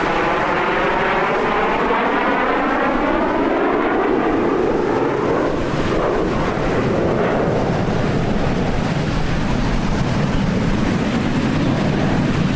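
Aermacchi MB-339 jet trainers flying past, a continuous jet noise with a falling pitch sweep as they pass over in the first half, settling into a lower rumble.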